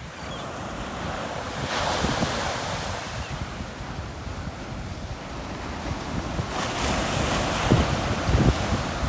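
Sea waves breaking on a beach. Two crashes rush in, about five seconds apart, the second peaking near the end. Wind rumbles on the microphone underneath.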